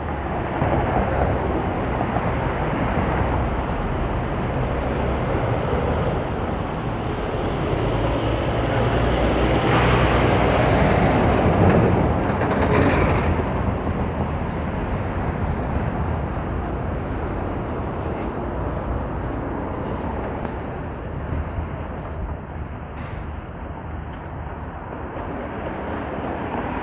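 Urban traffic noise: a steady rumble of vehicles. It swells as a louder vehicle passes about ten to thirteen seconds in, then settles back.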